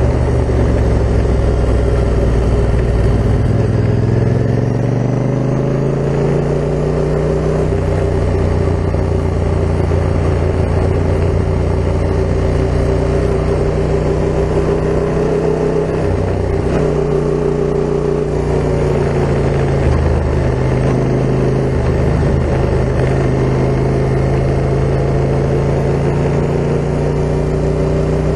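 Yamaha MT-07's parallel-twin engine running through an Akrapovic full carbon exhaust while under way, its pitch easing and climbing a few times with throttle and speed changes.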